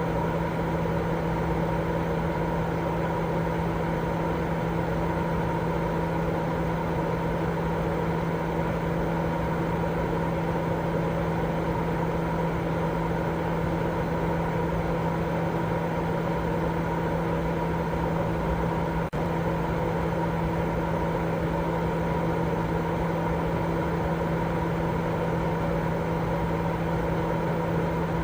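Continuous baby-sleep white noise: a steady, machine-like hiss with a low hum and a couple of fixed higher tones running through it, like a motor or fan running. It drops out for an instant about two-thirds of the way through.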